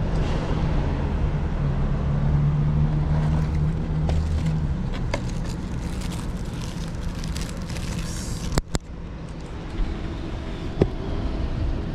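A motor vehicle's engine running close by in the street, a steady low hum that is loudest in the first half and then fades. Near the end come a short crinkle and a few sharp clicks from a clear plastic food-box lid being handled.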